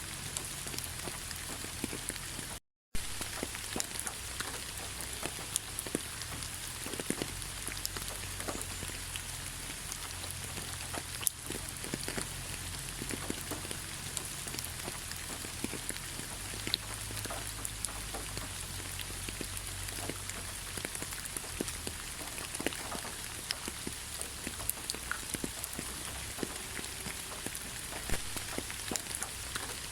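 Steady rain falling in a forest, an even hiss dotted with many separate drops ticking. There is a split-second gap of silence about three seconds in.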